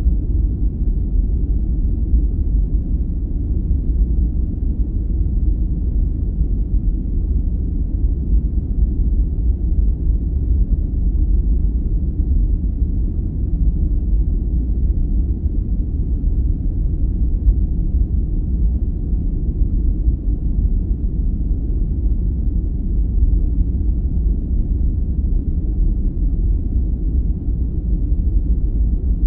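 Steady, even sleep-noise track that is deep and rumbling rather than hissy, like brown noise, with no breaks or changes.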